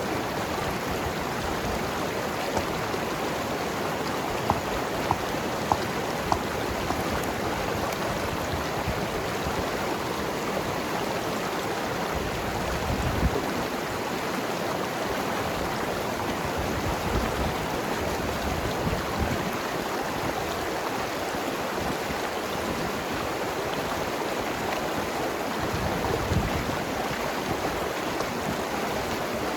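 Mountain river flowing over rocks: a steady rush of water with gurgling, and a few short sharp ticks a few seconds in.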